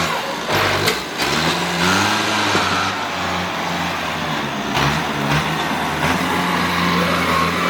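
A heavy work vehicle's engine running, its speed rising and falling several times as it is throttled up and down, with a few sharp knocks near the start and again about halfway through.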